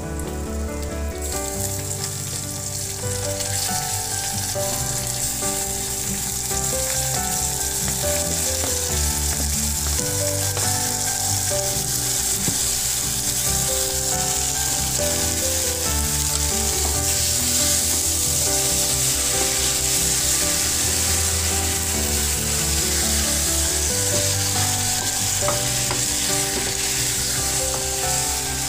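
Chopped tomatoes sizzling in hot oil with fried onions in an aluminium pot as they go in and are stirred with a wooden spatula. The sizzle grows about a second in, as the tomatoes hit the oil, and then stays steady.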